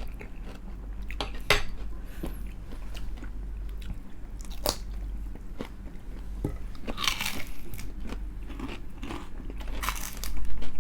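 Crispy fried chicken skin being bitten and chewed close to the microphone: sharp single crunches now and then, with denser, louder crunching near the end, over a steady low hum.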